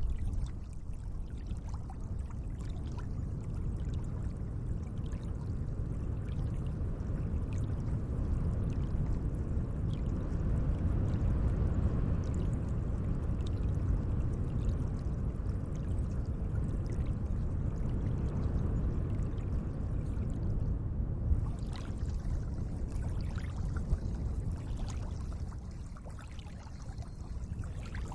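Lake water gently lapping and trickling in a steady wash, with many small splashes and drips through it.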